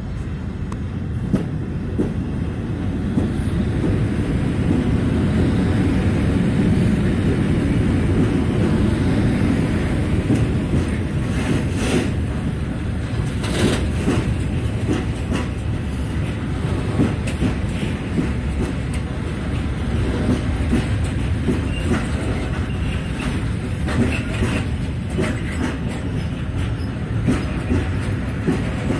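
Electric-hauled freight train passing through without stopping: a long string of open-top freight wagons rumbling and clattering on the rails. It grows louder over the first few seconds as the locomotive and front wagons arrive, then runs on steadily with scattered knocks from the wheels.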